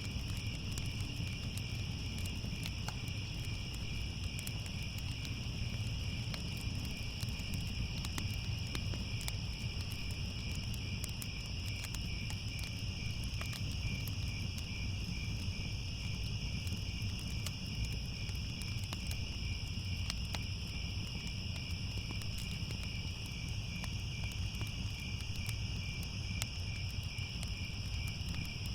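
Steady chorus of crickets chirping, a continuous high trill, over scattered sharp crackles and a low rumble from a wood fire.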